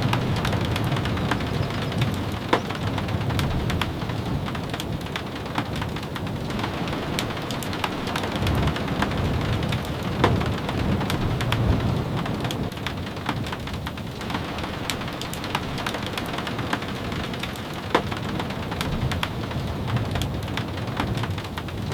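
Steady rain, with scattered sharp ticks and pops through it over a low rumble.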